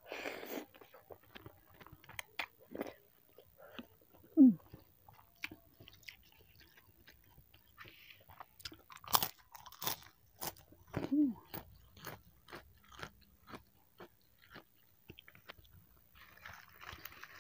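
Close-miked eating: wet chewing of saucy fried instant noodles with tofu and mustard greens, with many small mouth clicks. Two short low sliding sounds from the mouth or throat come about four and eleven seconds in; the first is the loudest moment.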